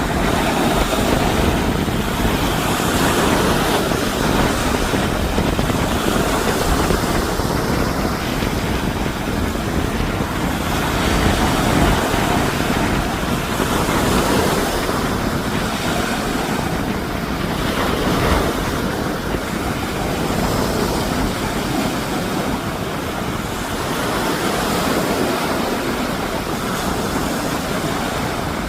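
Steady rushing noise of strong hurricane wind and surf, the wind buffeting the microphone, swelling and easing slightly in level.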